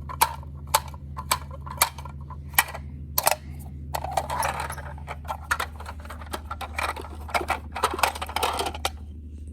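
Plastic toy garbage truck being handled, its back hatch worked open and shut: a run of sharp plastic clicks about twice a second, then rattling and scraping with more clicks.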